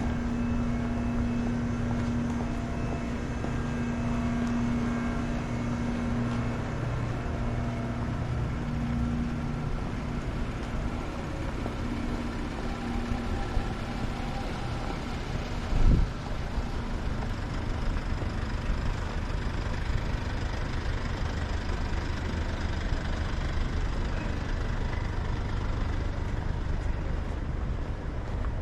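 City street ambience with passing and idling vehicles. A steady engine hum is clear for about the first ten seconds and then fades into the general traffic noise, and a single short thump comes about sixteen seconds in.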